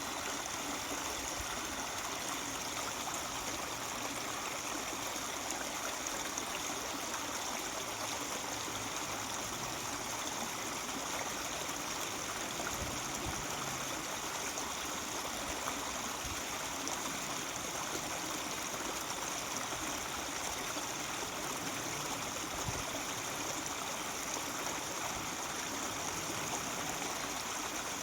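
Mountain stream running and babbling steadily.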